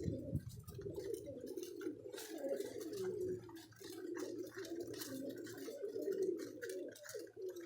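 Domestic pigeons cooing, several low overlapping coos that keep on without a break, with light scattered clicks above them.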